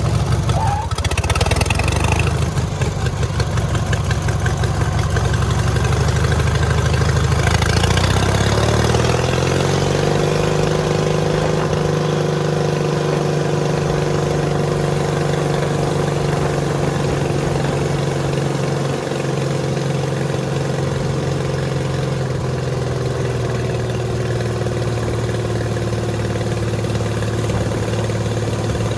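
Rebuilt 18 hp Murray riding-mower engine running. About eight seconds in its pitch rises over a couple of seconds to higher revs, then holds steady.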